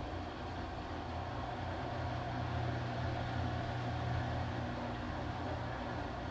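Washing machine running with a steady low motor hum and the noisy churn of the drum, swelling slightly midway.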